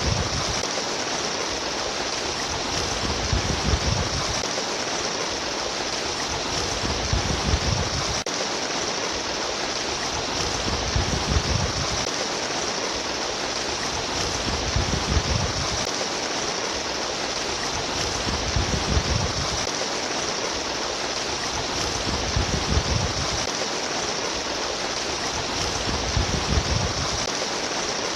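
Running water of a babbling stream, a steady splashing rush with a deeper low surge about every four seconds.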